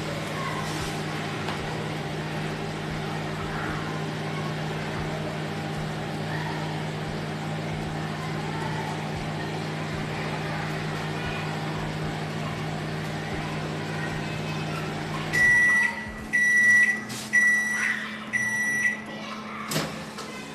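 Samsung 28-litre convection microwave oven running with a steady hum, which stops about fifteen seconds in; the oven then beeps four times to signal the end of the cycle. A single sharp click follows near the end.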